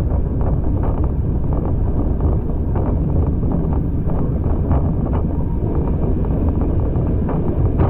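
A moving heritage passenger train heard on board: a steady low rumble and wind rush, with frequent irregular sharp clicks and rattles.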